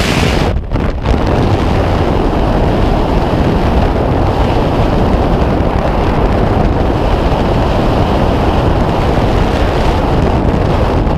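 Loud, steady rush of wind on a skydiver's camera microphone in freefall, with a brief drop in the noise under a second in.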